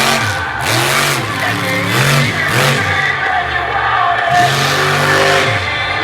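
Monster truck engine revving up and down over and over, about once a second, each rev rising and falling in pitch.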